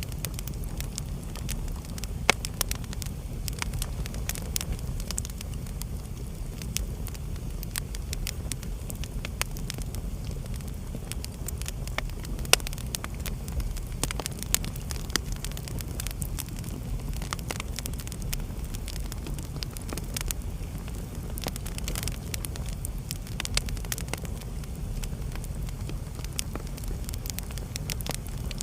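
Wood fire burning in a fireplace: a steady low rumble of the flames with irregular crackles and sharp pops from the logs, a couple of louder pops standing out.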